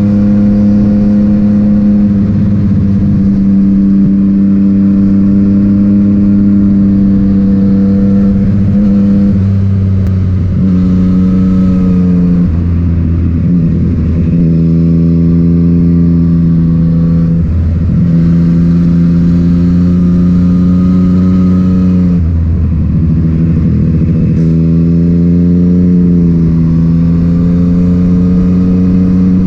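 Yamaha MT-09's inline three-cylinder engine through an Akrapovic titanium exhaust, heard from on board while riding. It holds a steady note for a while, then drops and picks up pitch several times as the throttle is rolled off and reopened through the corners, and climbs again near the end.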